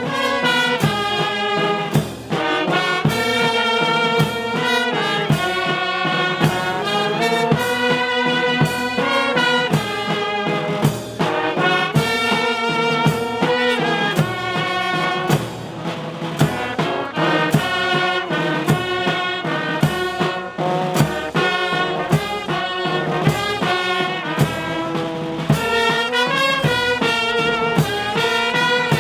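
Police brass band playing a tune in the open air, with drum strikes keeping the beat.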